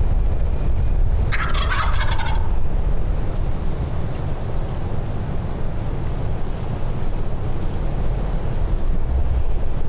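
A wild turkey gobbler gobbles once, a rapid rattling call lasting about a second, about a second in. A steady low rumble of wind on the microphone runs underneath.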